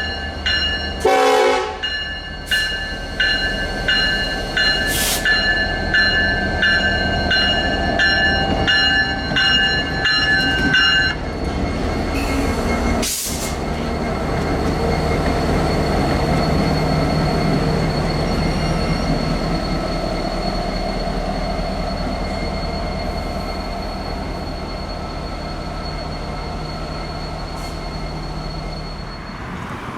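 Train passing a level crossing: the crossing bell rings about twice a second and stops about 11 seconds in, a short horn blast sounds about a second in, and the train runs by with a steady rumble, a few sharp clangs and a faint high wheel squeal.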